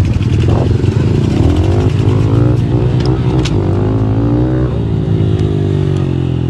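Small four-stroke pit bike engine running under a rider, revving up and easing off a few times, then settling to a lower, steadier note near the end.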